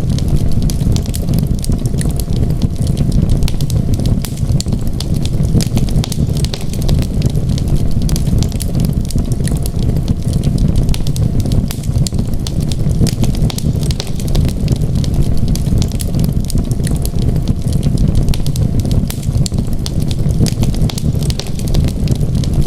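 Wood fire crackling in a fireplace: a dense scatter of small sharp pops and snaps over a steady low rumble.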